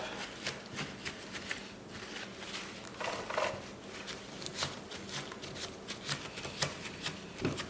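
Rag wiping brake cleaner, sawdust and bar-oil gunk off a chainsaw chain's teeth: soft rubbing with scattered small clicks of metal.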